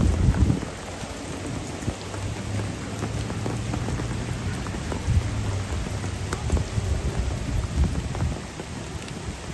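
Heavy rain falling and pattering on hard surfaces, with many small drop impacts, under a low rumble that is loudest in the first half second.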